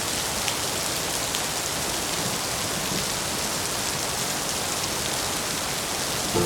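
Steady rain: an even hiss, broken by a few sharper drop ticks.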